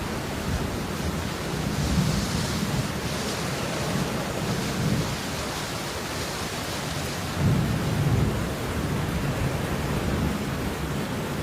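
Steady rain hiss, with low rumbles swelling now and then underneath, the strongest about seven and a half seconds in.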